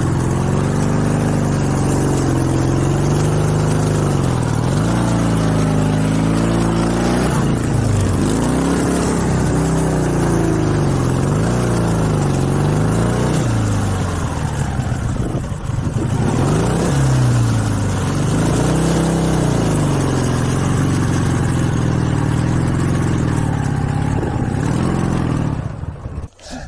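Dnepr MT-16 sidecar motorcycle's boxer-twin engine revving up and down under load while pushing through deep sand. The pitch rises and falls every second or two, with a short dip about halfway through, and the sound cuts off abruptly near the end.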